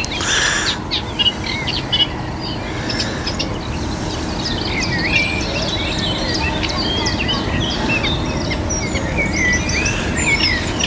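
Small songbirds singing, a busy run of short, varied chirps and whistles, over a steady low background rumble.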